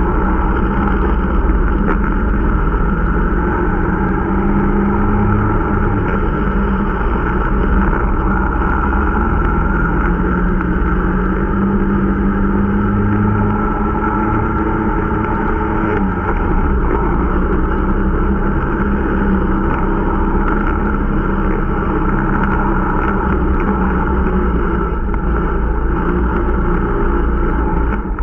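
Irbis Dingo T125 snowmobile's small single-cylinder engine running under way during its break-in ride, its pitch rising and falling a little with the throttle, over a deep rumble.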